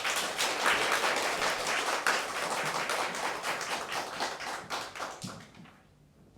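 Audience applauding, many hands clapping together, dying away about a second before the end.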